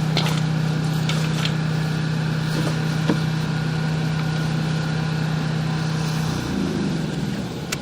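Steady low machine hum with a few faint clicks; about six and a half seconds in its pitch slides down and it fades, as a motor does when it winds down.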